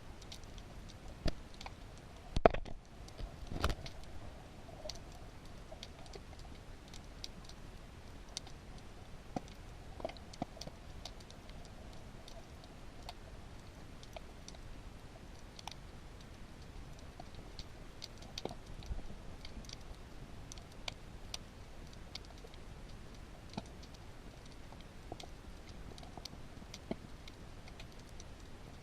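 Underwater ambience: a steady hiss with sparse, irregular sharp clicks and crackles, and a louder knock about two and a half seconds in.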